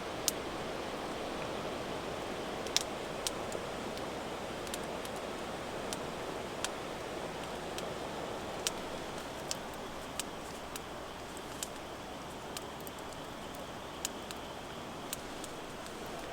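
Steady heavy rain hiss, with sharp ticks scattered irregularly through it at roughly one a second.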